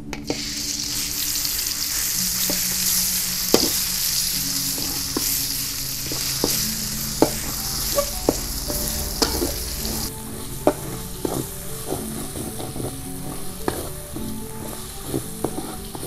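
Yellow spice paste frying in hot oil in a stainless steel wok, sizzling loudly as it goes in and stirred with a metal spatula that ticks and scrapes against the pan. The sizzle eases about two-thirds of the way through as the paste cooks down, while the spatula ticks go on.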